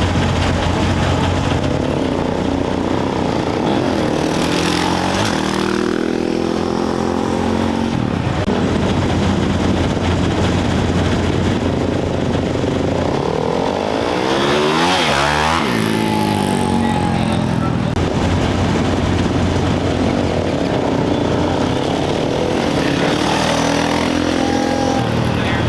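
Off-road race motorcycles revving and accelerating away from the start over a steady low engine rumble. About halfway through, one passes close and its engine pitch drops sharply as it goes by.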